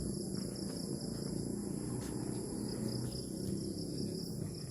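A chorus of insects, likely crickets, keeps up a steady high-pitched chirring, over a low rumble.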